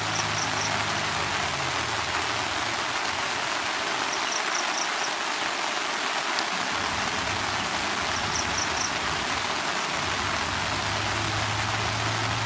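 Steady rain falling on wet ground and a puddle, an even hiss throughout. Short high chirps in groups of three or four come roughly every four seconds.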